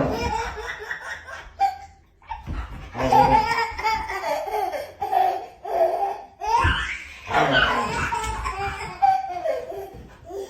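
Hearty human laughter in long bouts, with a short pause about two seconds in.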